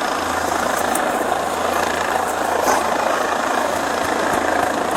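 Steady cabin noise of a police helicopter in flight, an even rush of rotor and turbine noise with a low hum underneath, as picked up on the crew's intercom audio.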